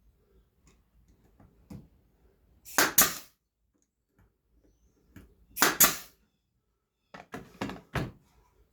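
Brad nailer firing into small wooden pieces: two sharp shots about three seconds apart, then a quick run of shorter knocks near the end.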